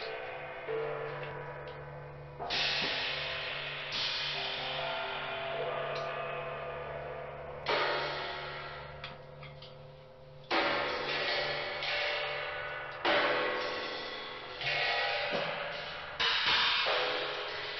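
Cymbal-like metallic percussion struck irregularly, about ten crashes, each ringing out and fading slowly, over a low steady hum.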